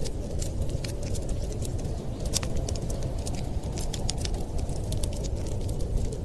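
Wood fire crackling in a fireplace: scattered sharp snaps and pops, several a second, over a steady low rumble.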